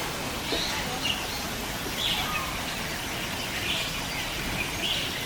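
Birds chirping in short calls, roughly once a second, over a steady background of outdoor noise.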